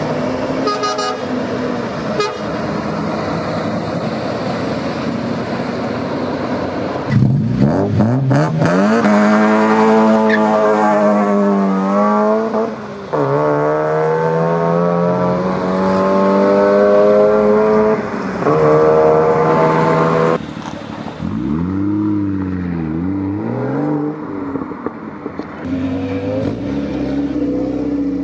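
Car engine accelerating hard away, its pitch climbing steeply and dropping back at the gear changes. Then a few short revs, the pitch dipping and rising again.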